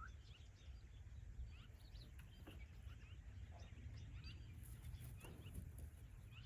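Faint bird chirps, many short calls scattered throughout, over a steady low rumble of wind.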